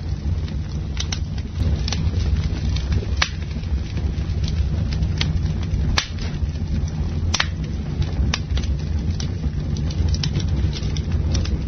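Campfire burning with a steady low rumble, the wood crackling and popping in irregular sharp snaps, a few of them louder, about three, six and seven seconds in.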